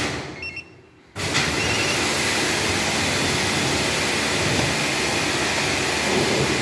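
Car's diesel engine started after an engine wash, then running steadily at idle. Near the start the sound almost drops out for about a second, with a couple of short high beeps.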